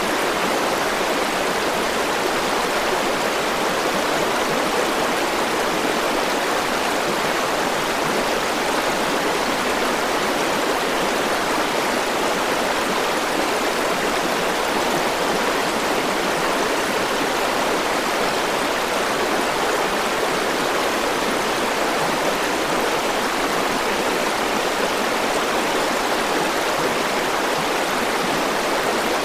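River water rushing and splashing steadily over its bed, a constant even rush with no change.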